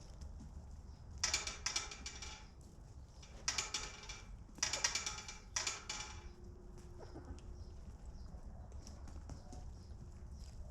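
Chickens in a coop: four short, loud bursts of harsh squawking in the first six seconds, then quieter coop sound with a steady low hum.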